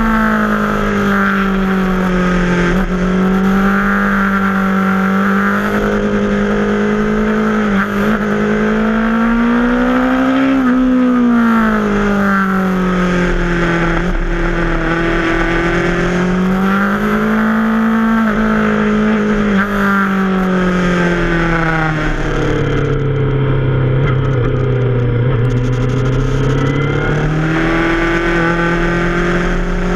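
Yamaha FZ6R's 600 cc inline-four engine under way, its pitch rising and falling several times as the throttle is opened and eased off. The engine drops to its lowest pitch a little past the middle, then climbs again near the end.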